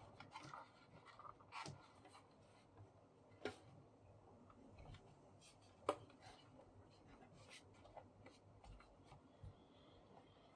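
Faint scraping and a few scattered light clicks of a screwdriver and hands at work on a paper laminator's plastic casing, as it is being opened.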